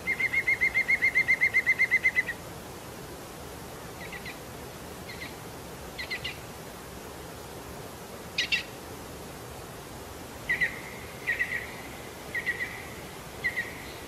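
A bird calling: a rapid trill of repeated notes, about eight a second, lasting about two seconds, then scattered short chirps and double notes over a steady background hiss.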